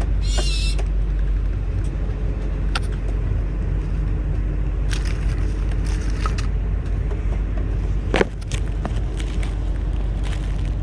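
Steady low rumble throughout, over which a pet bird gives a short high chirp just after the start. A few light clicks follow, and there is a single sharp knock about eight seconds in.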